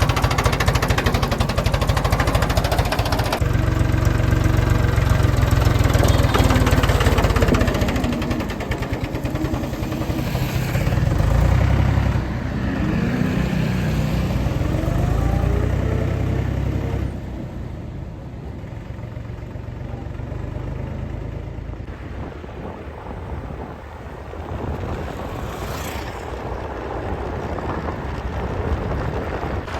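Tractor diesel engine running, rising in pitch as it is revved near the middle, then quieter in the last part.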